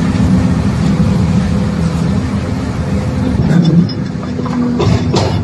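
Excavator diesel engine running steadily. Near the end a hydraulic breaker starts hammering, about four blows a second.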